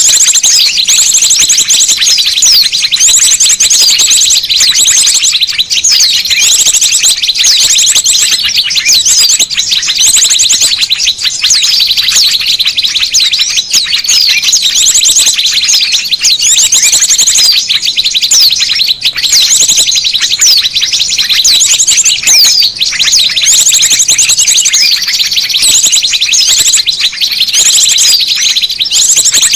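A dense chorus of small birds' rapid, high-pitched chirps and trills, many calls overlapping without a break: a noisy small-bird lure recording (suara pikat) played to draw small birds in.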